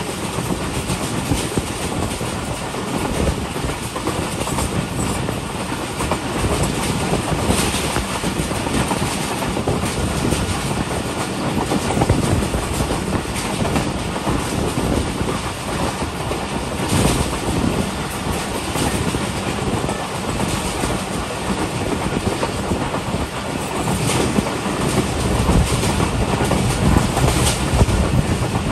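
Passenger train running along the track: a steady rolling rumble and wheel-on-rail noise, with an occasional sharp clack over rail joints, growing a little louder near the end.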